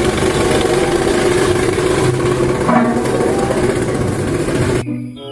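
Engine sound effect for a road roller, a heavy machine running with a dense, rough noise and a steady low hum. It cuts off abruptly near the end, where brass-band music starts.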